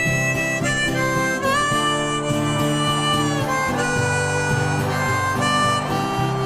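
Harmonica playing a melody of long held notes with a few sliding bends, over strummed acoustic guitar, as an instrumental passage of a karaoke backing track.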